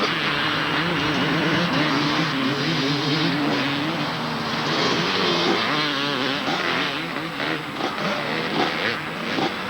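250cc two-stroke motocross bikes racing, their engines revving with the pitch rising and falling continuously.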